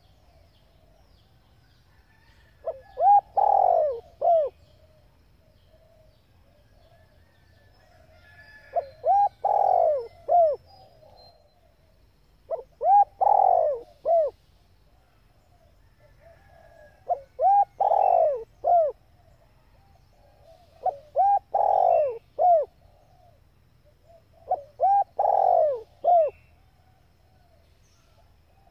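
Female spotted dove cooing: six short phrases of a few soft coos each, the middle coo the strongest, repeated about every four seconds.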